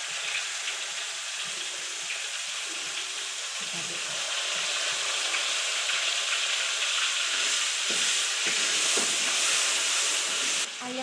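Shallots, garlic and chilli sizzling in hot margarine in a large aluminium wok while a spatula stirs them. The sizzle grows louder over the last few seconds and cuts off suddenly near the end.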